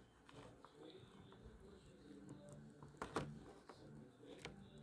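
Faint handling of a ratcheting screwdriver's small mechanism parts while fitting a piece back in: a few light clicks, one about three seconds in and another near the end.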